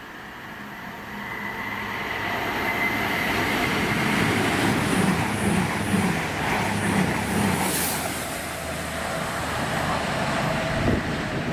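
A train passing through, its rumble building over the first few seconds and holding loud, with a regular clatter of wheels about twice a second in the middle before it starts to fade near the end.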